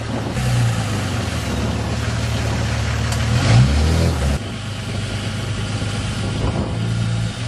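Dodge Ram 2500's Cummins turbo-diesel engine running, its revs climbing about halfway through to the loudest point, then easing off abruptly a second later.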